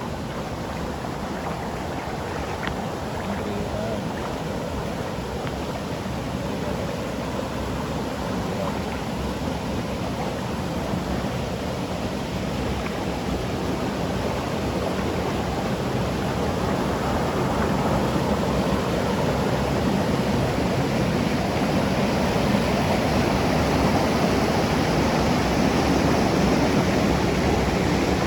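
Water rushing over the second stage of Kintampo Waterfalls, a steady noise that grows gradually louder.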